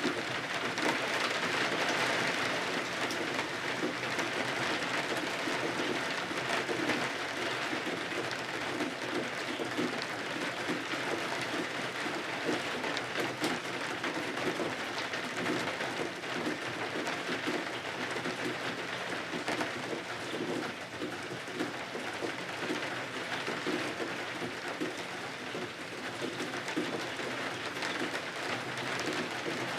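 Steady rain falling and pattering on window glass, an even hiss with fine scattered drop ticks.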